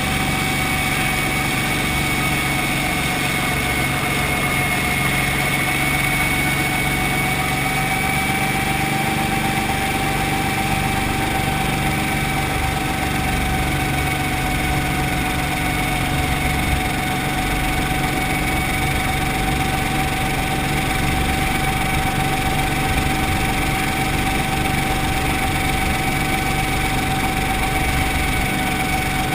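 Brantly B2B helicopter's piston engine and rotor drive running steadily, with a constant high whine over the engine note.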